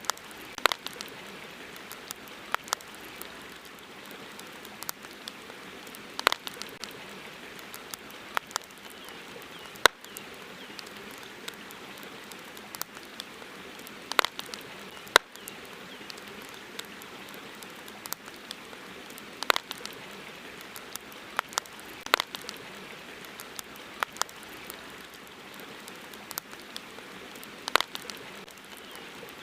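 Campfire crackling: irregular sharp pops and snaps every second or so over a steady hiss.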